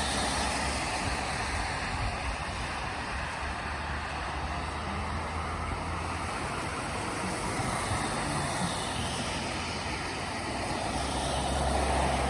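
Steady road-traffic noise: a continuous low rumble and hiss of passing vehicles, the rumble swelling and easing off.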